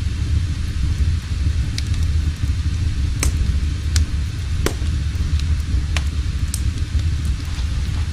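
A fire burning in a fireplace: a steady low rumble with scattered, irregular sharp crackles.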